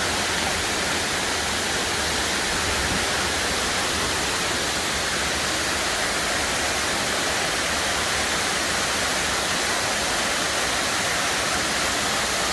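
Waterfall's falling water close by, a steady, unchanging rush of noise.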